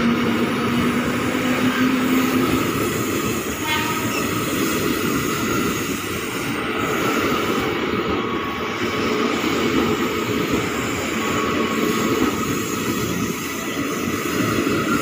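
KRL electric commuter train, an ex-Japanese EMU, running past close by: a steady rumble and clatter of wheels on the rails. A tone rises slightly in pitch over the first two seconds or so.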